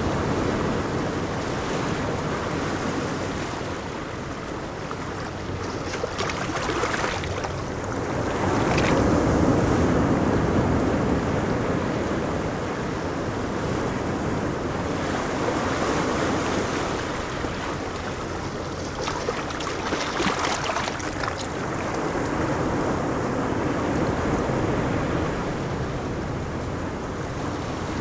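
Ocean surf breaking on a beach: a continuous wash of waves that swells and ebbs every few seconds, with brief surges as waves break.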